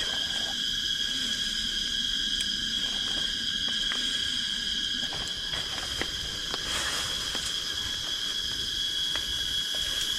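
Steady, high-pitched drone of forest insects, unbroken throughout, with a few faint light clicks scattered through it.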